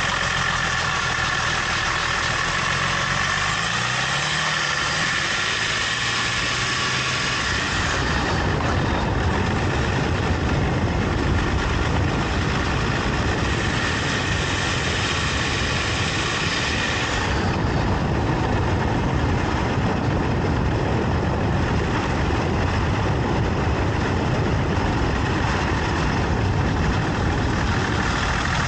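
Range Rover L322 engine and road noise on the move. In the first seven seconds the engine note rises a few times, then a steadier low rumble of road noise takes over. The clicking from its worn CV axle is not clearly heard.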